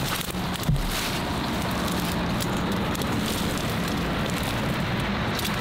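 Steady hiss of light rain falling, with a single low thump a little under a second in.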